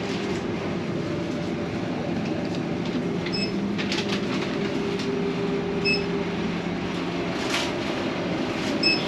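Steady drone of the ferry's engines and on-board machinery, with a few short rattles. A short high electronic beep sounds three times, about two and a half seconds apart.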